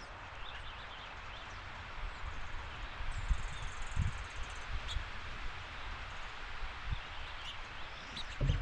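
Outdoor backyard ambience: a steady hiss with scattered low thumps on the microphone, and a few faint short bird chirps.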